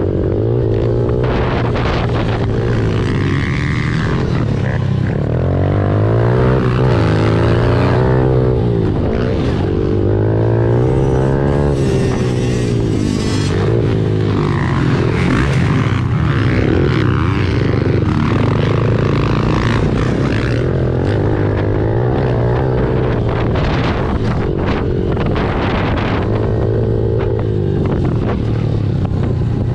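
Honda CRF110 pit bike's small single-cylinder four-stroke engine being ridden hard, its pitch climbing and dropping again and again with the throttle and gear changes.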